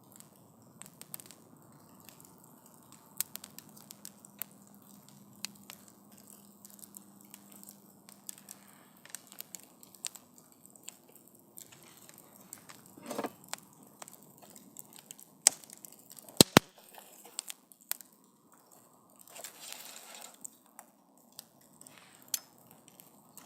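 Wood campfire crackling, with scattered sharp pops; the loudest few come about two-thirds of the way through, followed by a short hiss.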